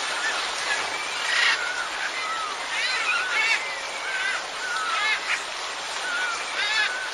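Birds calling in short, repeated arching calls, several in quick clusters, over a steady hiss.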